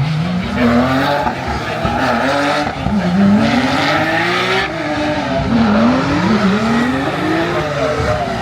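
A pack of V8 Supercars accelerating away from a race start. Many V8 engines rev up and shift gears over and over, their pitches rising and dropping on top of one another.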